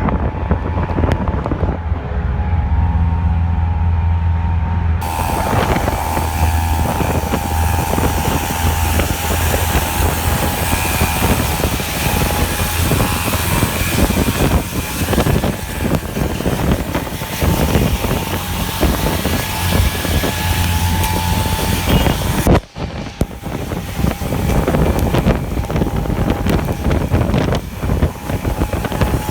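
A vehicle running with a steady low engine hum under a loud, even hiss. The sound dips briefly about three-quarters of the way through, then carries on.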